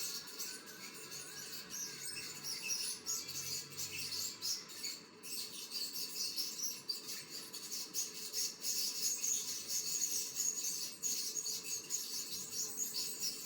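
Continuous high-pitched chirping of birds, dense and unbroken.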